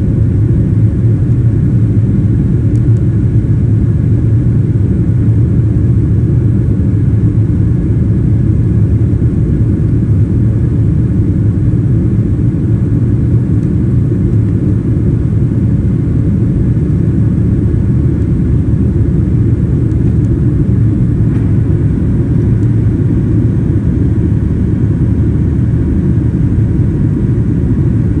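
Boeing 737-700's CFM56-7B jet engines during takeoff and climb: a loud, steady low rumble with faint whining tones above it.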